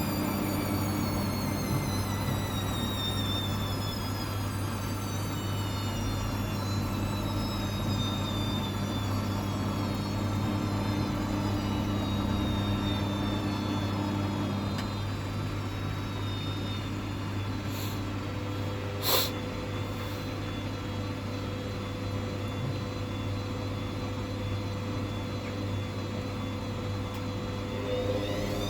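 Hoover washing machine's motor whining and falling in pitch as the drum slows down from a spin on a cotton 90 wash, over a steady low hum. A single sharp click comes about 19 seconds in, and near the end the whine starts rising again as the drum speeds back up.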